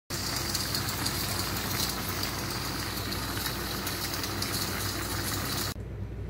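Chicken and onions sizzling and bubbling in a hot wok, a dense crackling sizzle over a steady low hum, cutting off suddenly near the end and leaving only a quieter hum.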